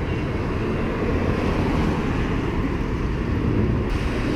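Steady low rumble with wind noise on the microphone; the noise shifts about four seconds in.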